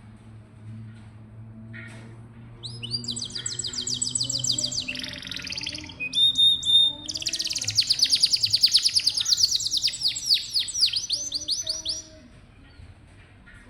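Domestic canary singing: after a short pause, a long song of rapid trills, each phrase a fast run of repeated high chirps, which stops shortly before the end.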